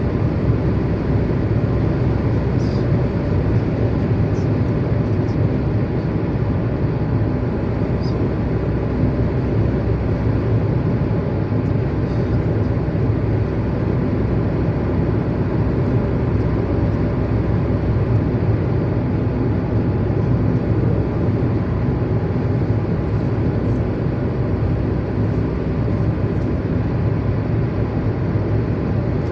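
Steady low rumble of a running vehicle, unbroken throughout, with a few faint ticks.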